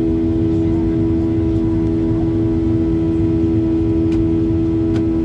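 Boeing 737-800's CFM56-7B jet engines running steadily after takeoff: a constant drone with a strong steady hum over a low rumble.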